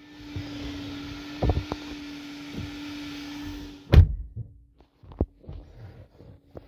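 Steady hiss, then a 2021 Ford Expedition's door shutting with a single heavy thunk about four seconds in, followed by a few soft clicks.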